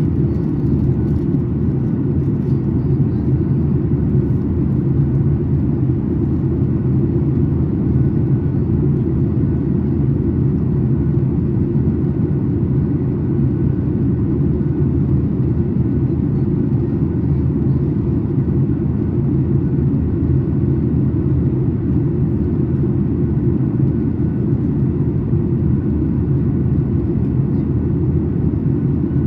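Steady low cabin rumble inside a Boeing 737 MAX 8 airliner, heard from a window seat behind the wing: the engines and air noise of the jet, unchanging, with no thumps or changes in thrust.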